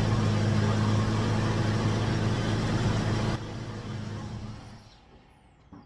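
A vehicle engine running at a steady idle with a low hum. The sound drops sharply about three and a half seconds in and fades away soon after.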